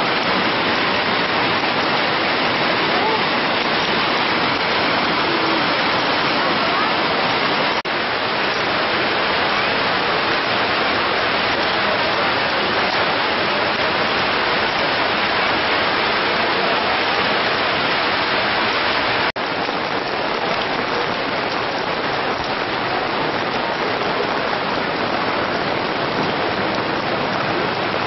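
Heavy rain pouring onto a flooded street, a steady dense hiss of rain hitting the surface and water running over the road, briefly dipping twice.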